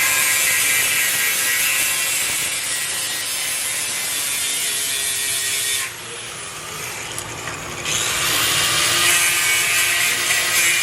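A handheld power tool cutting, with a loud rasping hiss. About six seconds in the tool stops and its whine falls away, and about two seconds later it spins back up with a rising whine and carries on cutting.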